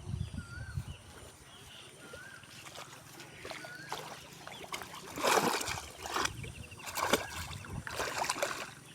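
Water splashing and sloshing in shallow muddy water as hands work through it, in four loud bursts over the second half, the first the loudest. Small birds chirp repeatedly in the background.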